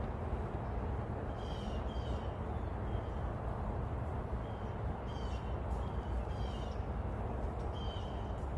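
Birds calling: short, high, repeated calls, some in quick pairs, over a steady low rumble.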